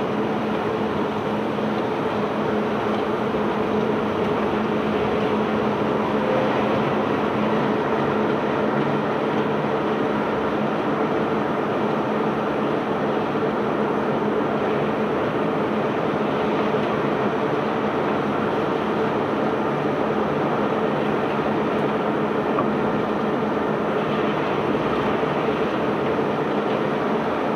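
Self-unloading cargo barge's unloading machinery running steadily during discharge: a continuous mechanical rumble with a steady hum.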